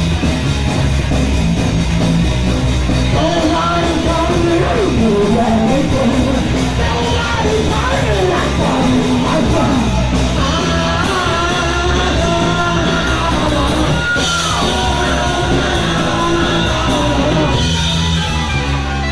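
Punk rock band playing live: loud distorted electric guitars, bass and drums, with a bending, gliding melodic line riding over the mix from about four seconds in.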